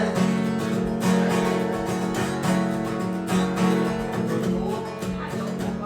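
Music: a strummed acoustic guitar plays a short instrumental passage between sung lines of a song.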